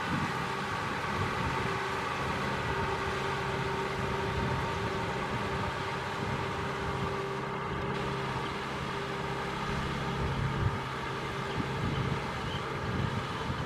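Kubota M6040SU tractor's diesel engine running steadily at an even pitch.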